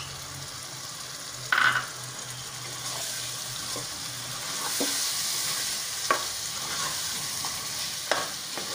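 Chicken masala sizzling in hot oil in a pan as curd is stirred in, the sizzle swelling about halfway through. A steel spoon clicks and scrapes against the pan a few times, the loudest clack about one and a half seconds in.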